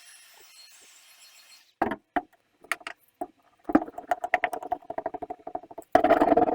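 Handling noises from working foil-backed sound-deadening mat: a few sharp knocks, then a longer run of rapid scraping and crinkling that grows loudest near the end.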